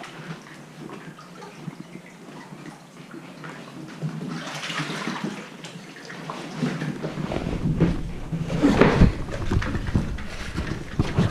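Sea water sloshing and splashing around a kayak, with stronger splashes about four and a half seconds in and again near nine seconds. A low rumble comes in from about seven seconds.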